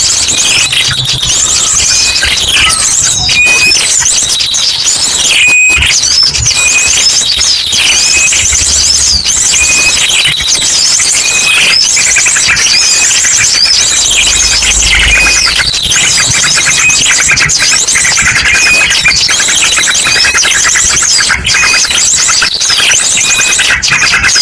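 Dense, loud chorus of small birds chirping and trilling over one another, mixed with the rapid, repeated calls of an ashy drongo. This is a bird-lure recording played to draw wild birds in.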